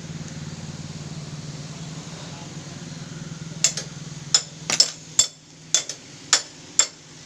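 Sharp clicks and clinks of small metal motorcycle gearbox parts being handled, about eight in three seconds, starting about halfway through. A steady low hum lies under the first part and fades out about five seconds in.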